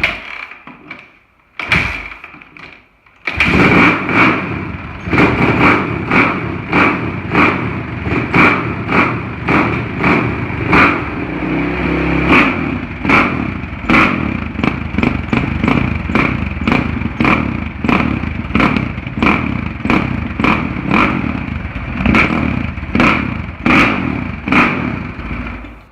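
Suzuki RM-Z450 single-cylinder four-stroke dirt bike kick-started: a couple of short thumps from the kicks, then it fires about three seconds in and runs with the throttle blipped in quick revs about once a second. The exhaust has freshly repacked silencer packing and a new exhaust gasket.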